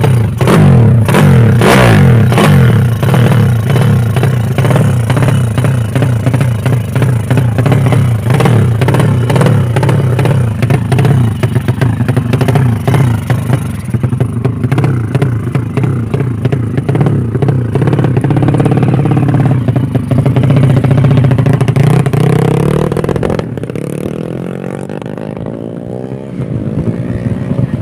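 High-compression tuned 125 cc motorcycle engine running loud through its exhaust with a fast, choppy beat, held steady for most of the time, then easing off about 23 seconds in and picking up again near the end.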